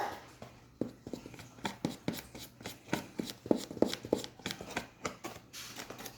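Spoon repeatedly tapping and scraping as powdered starch is scooped and packed down into a box, a string of irregular light clicks and knocks about two or three a second.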